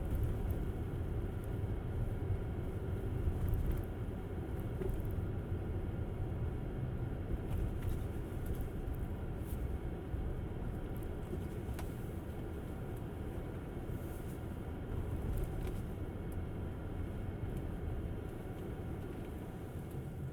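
Tesla Model S driving through a snow storm: a steady low rumble of tyre and road noise, easing a little toward the end.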